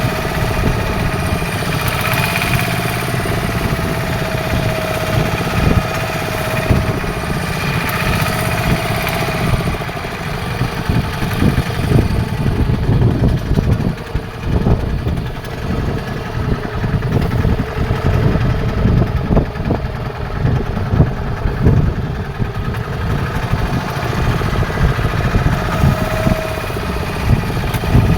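Fishing boat's engine running steadily at sea, a continuous mid-pitched drone over an uneven low rumble that turns choppier about a third of the way in.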